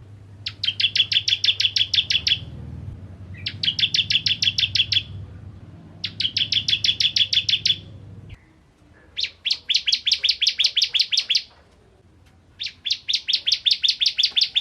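Ciblek kristal prinia singing hard: five bursts of rapid, sharp repeated chip notes, about eight a second, each burst lasting one to two seconds with short pauses between.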